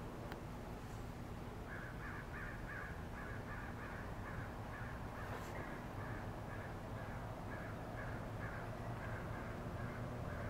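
A bird calling in a long, quick series of short calls, about three a second, starting about two seconds in, over a low steady hum.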